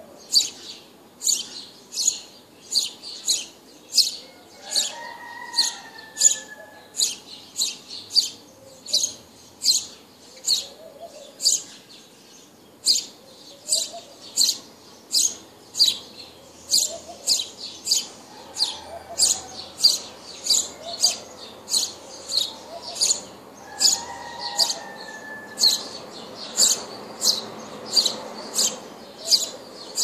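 A small bird chirping over and over, short sharp high chirps about one and a half a second, very evenly spaced. A lower, falling call cuts in twice, a few seconds in and near the end.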